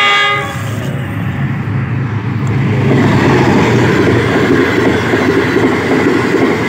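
Pakistan Railways passenger train passing close by: a short horn blast right at the start, then the steady noise of the coaches' wheels running over the rails, growing louder about three seconds in.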